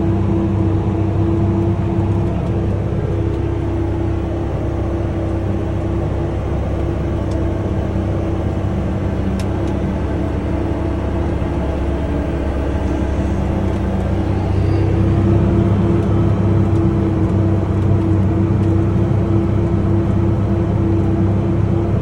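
Case IH Steiger tractor's diesel engine running steadily with a constant droning hum, growing a little louder about two-thirds of the way through.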